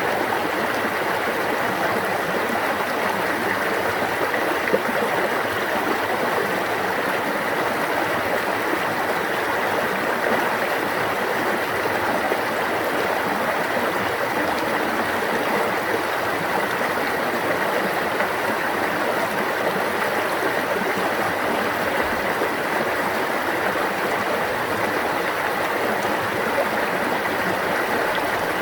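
Stream water babbling and flowing over rocks: a steady, unbroken rushing with no pauses.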